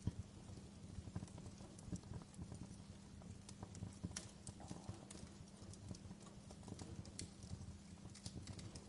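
Wood fire crackling in a fireplace: irregular sharp pops and snaps over a low steady burning rumble.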